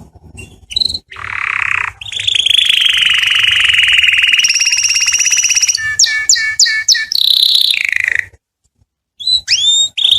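Domestic canary singing: a long, very fast trill, then a run of quick falling notes and a short pause before the song starts again with another fast trill near the end.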